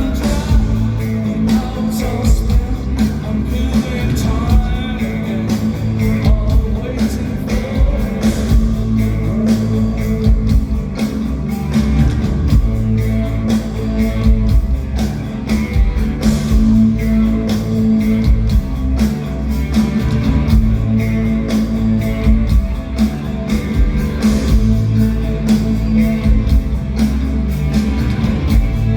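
Live rock band playing a song in concert: a steady drum beat over droning bass and guitars, with singing at times.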